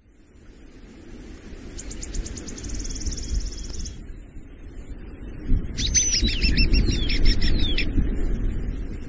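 Birdsong over a low rumbling ambience that fades in from silence: a fast high trill, then a few seconds later a run of quick, falling whistled notes.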